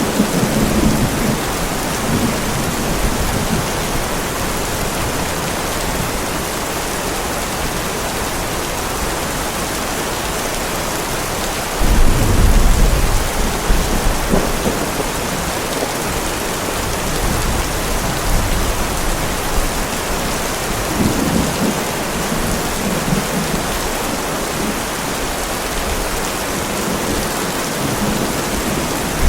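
Heavy rain falling steadily with rolling thunder. A loud, deep thunder rumble comes about twelve seconds in, with softer rumbles at the start and again around twenty-one seconds.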